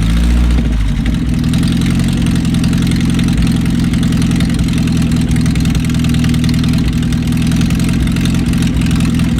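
A 1982 Datsun wagon's carbureted four-cylinder engine running steadily after a brief change in revs at the start. The engine has been struggling to hold an idle.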